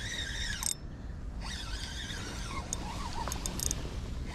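Small birds chirping in short, varied calls over a low steady rumble.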